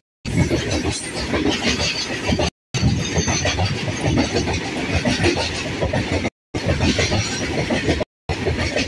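Freight train wagons rolling past at close range: steel wheels running on the rails with a dense, irregular clatter. The sound cuts out completely for a moment three or four times.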